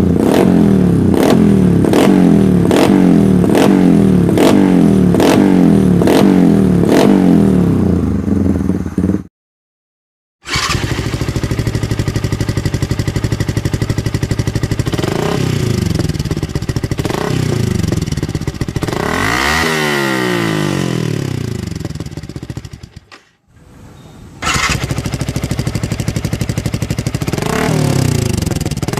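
Yamaha Vixion 150cc single-cylinder motorcycle with an aftermarket racing exhaust, revved while standing still for a sound check. It opens with a long run of quick, evenly spaced throttle blips, then cuts out. After that it idles with several rises and falls in revs, the highest about two-thirds of the way through, and cuts out again briefly.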